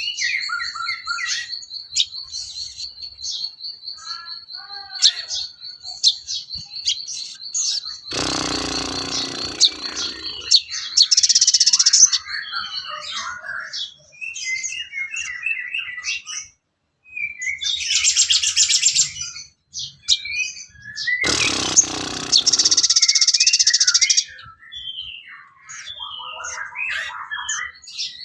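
Recorded songbird chirping and singing: a steady high trill for the first half, many quick chirps and note runs, and two loud, harsh rasping stretches about eight seconds in and again about twenty-one seconds in.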